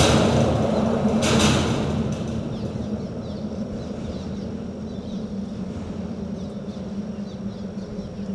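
Ambient sound at a bridge: a passing vehicle fades out in the first two seconds, leaving a steady low rumble with a hum, with faint chirps above it.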